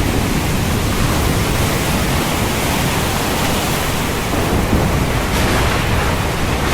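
Heavy rain pouring steadily in a rainstorm, with a low rumble of thunder underneath.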